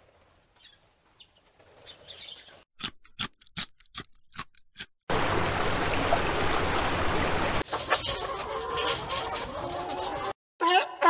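Domestic hens clucking, heard in the last few seconds after a run of short sharp clicks and a stretch of steady rushing noise. A loud new call starts just at the end.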